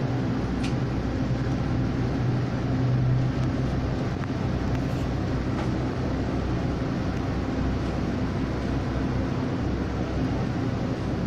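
Taiwan Railway local electric multiple-unit train running along the track: a steady low hum of motors over the rumble of wheels on rail, swelling slightly about three seconds in, with a faint tick near the start.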